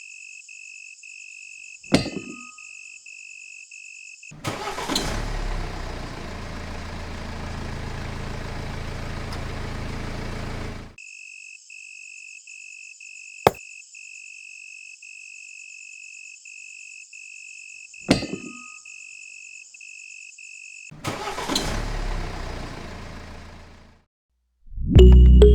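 An engine starts and runs for about six seconds, then is cut off; a pulsed beeping chime sounds while it is off, with a click before each start. A second, shorter start follows near the end.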